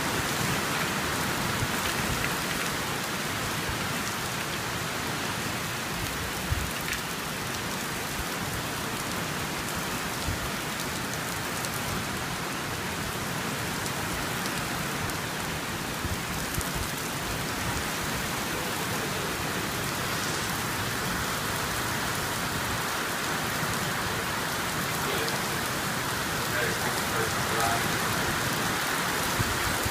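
Steady rain from a severe storm: an even, unbroken hiss.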